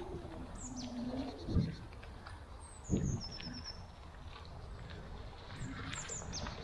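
Woodland birds chirping: short high calls that fall in pitch and a quick run of repeated notes, over a low steady background. Two dull thumps come in the first half.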